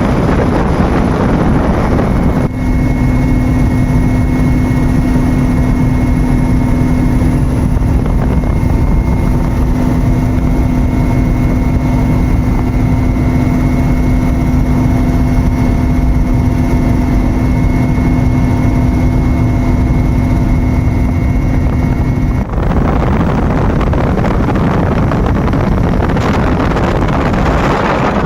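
Firefighting aircraft running overhead: a steady engine and rotor drone. It changes abruptly about two and a half seconds in to a steady low hum with one strong held tone, then returns near the end to a rushing noise.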